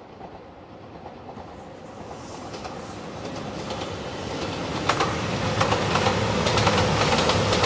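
JR Shikoku 2700 series diesel express train approaching and passing, growing steadily louder. From about five seconds in, its wheels click sharply over the rail joints over the steady rumble of the train.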